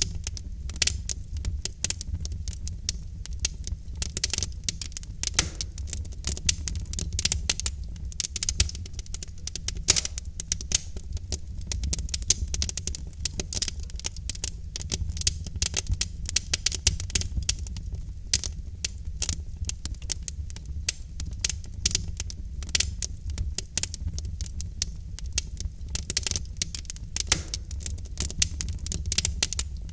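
Wood fire in a fireplace burning steadily, with dense irregular crackling and popping of logs over a low rumble of the flames.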